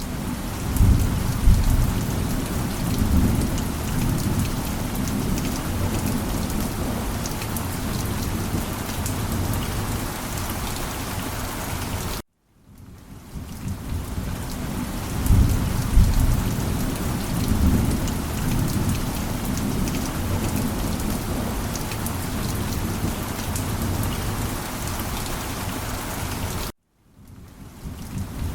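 Steady rain with low rolling thunder. It cuts off abruptly twice, about 14 seconds apart, and each time fades back in with a loud rumble of thunder, as a looped recording does.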